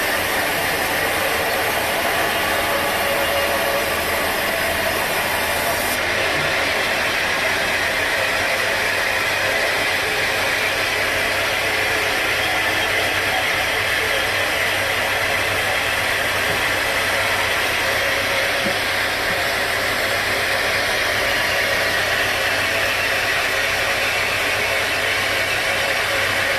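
Sawmill machinery running steadily, an engine-like drone with a dense, even noise over it.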